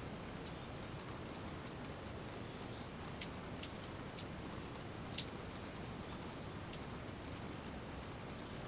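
Steady rain falling, with scattered sharp drip ticks; the sharpest one comes a little past the middle.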